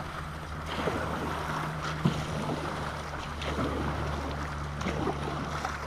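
A vehicle engine running steadily, a low hum under a rushing, wind-like noise.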